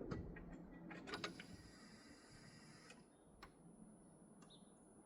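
Near silence with a few faint sharp clicks and a faint steady high-pitched electronic tone, as the Chevy Trailblazer's ignition is switched on and its security system blocks starting.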